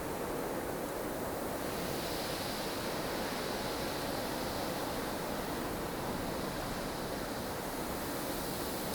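Snowstorm ambience: strong, steady blizzard wind, a full, even rush of noise with no breaks. About two seconds in, a higher hissing layer swells in.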